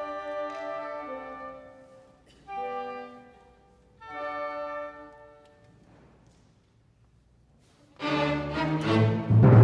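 Orchestra playing classical music: a few soft, sustained phrases with pauses between them, then a sudden loud full-orchestra entry with heavy low notes about eight seconds in.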